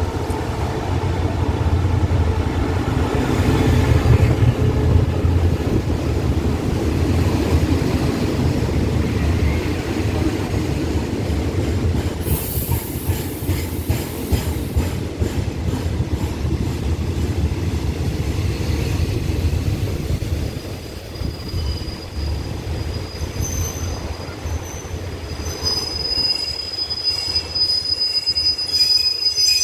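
SRT diesel locomotive and its passenger coaches pulling into the station: a deep engine rumble loudest in the first few seconds as the locomotive passes, then the coaches rolling by and slowing, with a burst of hiss about twelve seconds in. A thin, high brake squeal sets in for the last few seconds as the train comes to a stop.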